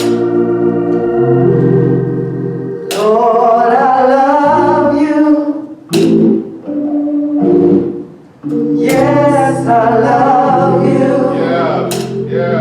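Gospel song with organ: held organ chords, with voices singing phrases that come in about three seconds in and again near nine seconds, and a sharp hit every three seconds or so.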